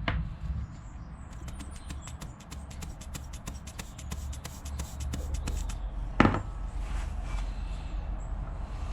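Hands working a home-made leak-down tester rig: a quick run of light clicks for about four seconds, then one sharp knock about six seconds in, over a steady low hum.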